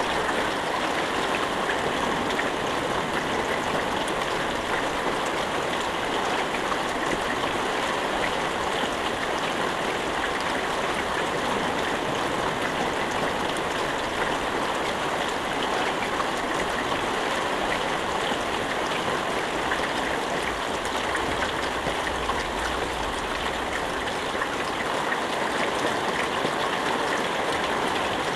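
Steady rain falling, an even, dense patter of drops with no thunder.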